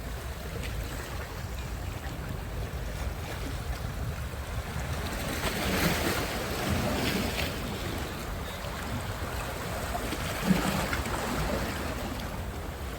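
Sea surf: waves washing onto the shore, swelling louder about six seconds in and again about ten seconds in, over a steady low wind rumble on the microphone.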